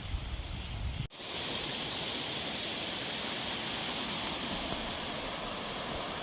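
Gusty wind rumbling on the microphone for about a second, then, after an abrupt cut, the steady rushing hiss of a river flowing.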